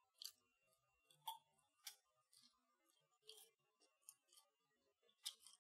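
Faint, close-miked chewing of a breaded, air-fried mini chicken kiev: a string of short, crisp crunches and mouth clicks, about seven spread over a few seconds.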